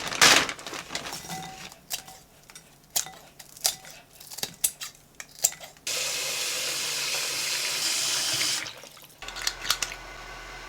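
Kitchen work sounds: a run of light clicks and knocks, then a tap runs into a sink for about three seconds and is shut off. Near the end a steady hum sets in.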